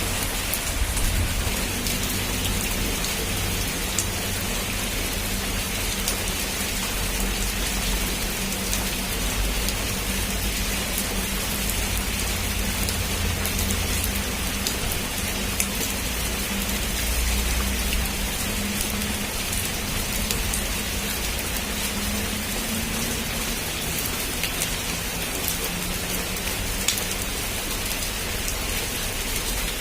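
Heavy rain falling steadily, with scattered sharp drop impacts, over a low rumble that swells and fades.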